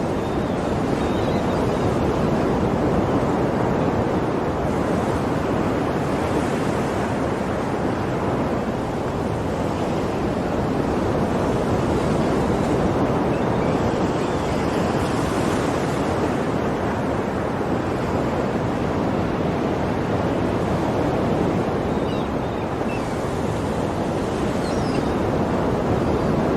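Ocean waves breaking and washing on a shore in a steady continuous wash, swelling gently every several seconds.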